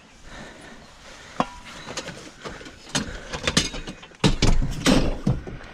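Knocks and clattering of household junk being handled and loaded into a vehicle, a few separate knocks and then a louder burst of banging and rattling a bit past the middle.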